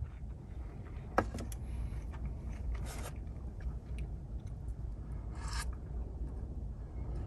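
Short rasping, rubbing handling noises, twice, after a sharp click about a second in, over a steady low rumble.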